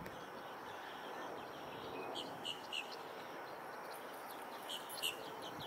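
Steady outdoor background hiss with a small bird chirping: three short high chirps about two seconds in, and a few more near the end.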